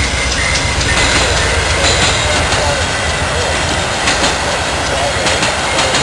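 A train rolling past close by, a steady rumble with its wheels clicking over the rail joints.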